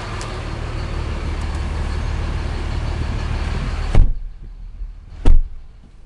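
5.9-litre Cummins inline-six turbo diesel idling. About four seconds in comes a knock, and a truck door thumps shut about a second later; after that the idle is heard muffled from inside the cab.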